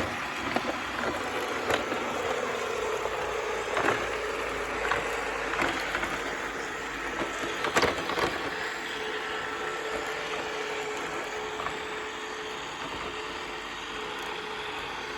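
Roborock S6 Pure robot vacuum running steadily, a motor hum with hiss, as it sucks up fine dust from a fireplace hearth. Irregular clicks and knocks come through, the sharpest about eight seconds in.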